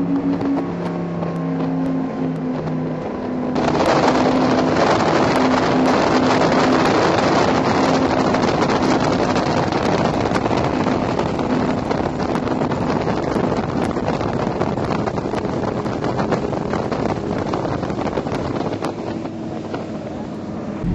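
Powerboat engines running with a steady drone. About three and a half seconds in, a loud rush of wind and water noise sets in suddenly and covers the engines, with their tone still faintly underneath.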